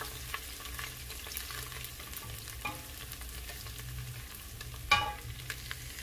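Shredded ginger sizzling in olive oil in a stainless steel stockpot, stirred with a wooden spoon that clicks and scrapes against the pot. A single louder knock about five seconds in.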